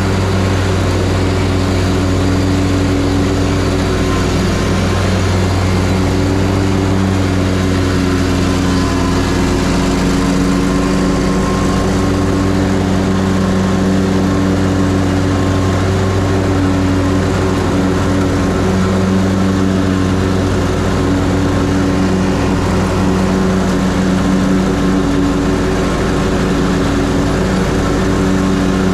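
Ferris Z3X zero-turn mower's 37 hp engine running steadily while mowing, with the 61-inch cutting deck engaged: a loud, even drone.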